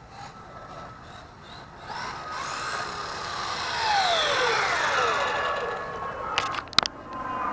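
Whine of an RC truck's brushed electric motor and drivetrain, rising as it speeds up and then falling steeply in pitch as it slows, with a couple of sharp knocks near the end.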